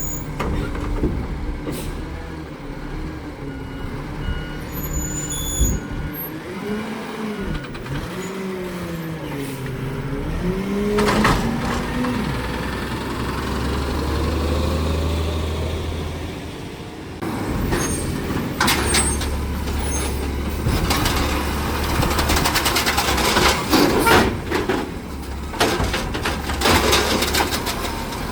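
Garbage truck working: its diesel engine and hydraulics run with a wavering whine that rises and falls, with air-brake sounds. From about two-thirds of the way in come repeated knocks and clattering, typical of a load being dumped and packed.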